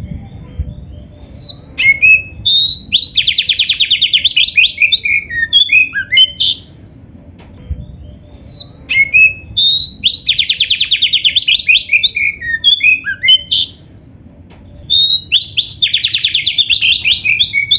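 Oriental magpie-robin (kacer) in full song: three loud phrases of varied high whistles, each built around a rapid, even trill, with short pauses between them over a faint low hum.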